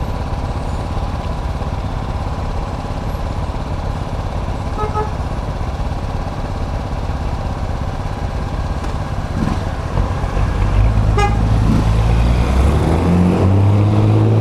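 Road and wind noise while riding in city traffic, with a short vehicle horn beep about five seconds in and another near eleven seconds. From about ten seconds in an engine grows louder and rises in pitch as it accelerates.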